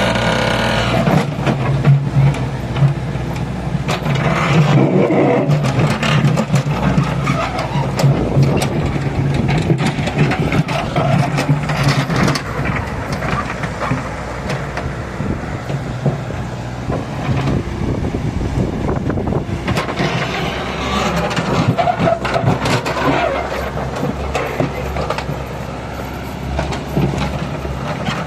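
Mechanical digger (excavator) working: its engine runs steadily under load while the bucket scrapes and knocks against stony ground, with frequent sharp knocks throughout.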